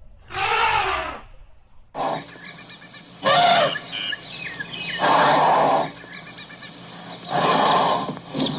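Elephant calling: one pitched call about half a second in, then, after a cut, three harsh, noisy calls roughly two seconds apart, with birds chirping in the background.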